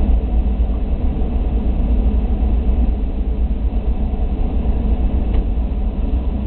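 A parked police car's engine idling with a steady low rumble, heard from inside the car, with a faint click about five seconds in.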